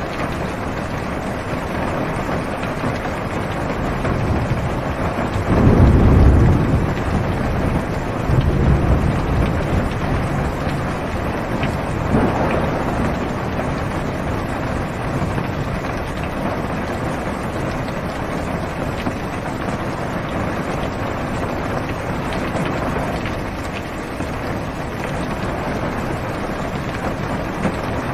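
Steady rain on a car's roof and windows, heard from inside the cabin. A low rumble of thunder swells about six seconds in, with fainter rolls a few seconds and again about six seconds later.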